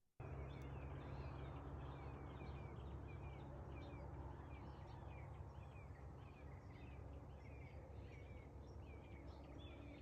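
Faint outdoor ambience: a steady low rumble with a small bird chirping over and over in short, evenly repeated calls.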